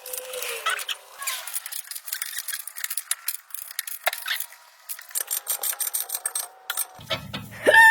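Metal hand tools and steering parts clicking and clinking in irregular bursts during work on a BMW rack end. Near the end a short voice sound falls in pitch.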